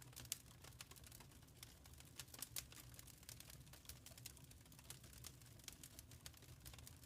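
Wood fire in a fireplace crackling faintly: irregular sharp pops and snaps, several a second, over a low steady rumble of the burning fire.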